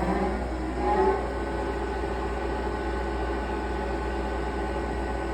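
Pipe-threading lathe's spindle drive, motor and headstock gearing, winding up to speed in the first second and then running steadily with a whine of several steady tones.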